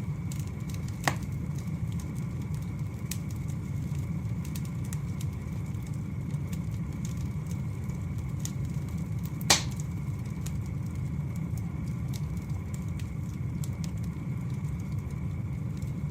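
Wood fire burning steadily with a low rumble, frequent faint crackles, and two sharp pops, one about a second in and a louder one about nine and a half seconds in.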